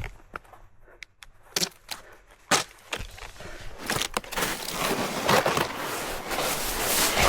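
Snowboard on snow: a few sharp knocks and scrapes, then from about four seconds a steady, louder hiss of the board sliding over the snow.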